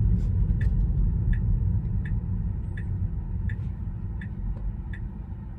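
Car turn-signal indicator ticking at an even pace, about one tick every three-quarters of a second, signalling a right turn, over the steady rumble of road noise inside the cabin.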